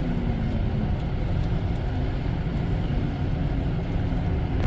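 Steady low rumble of a moving passenger train, heard from inside the railcar.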